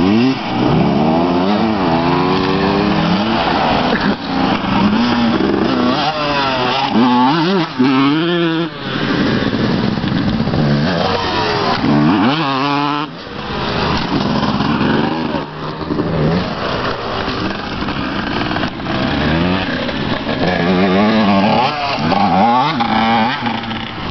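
Two-stroke 250 cc motocross bikes running on the track, the engine pitch climbing and dropping again and again as they accelerate, shift and back off the throttle.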